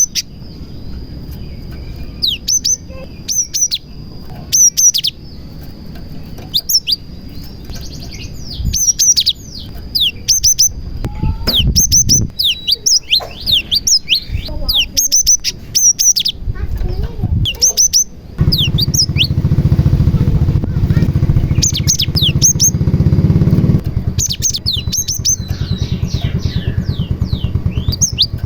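Cinereous tit (gelatik batu) singing: rapid, repeated sharp high chirps with quick downward sweeps, coming in bursts. A loud low rumble runs beneath the song for about five seconds past the middle.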